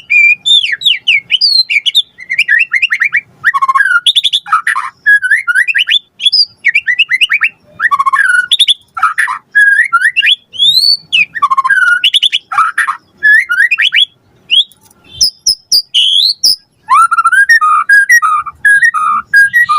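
White-rumped shama singing a long, rapid run of varied whistles, trills and chattering phrases, the full-of-mimicry song kept as a lure to set other shamas singing. The song thins briefly to a few sharp clicks and single notes about three-quarters through, then picks up again.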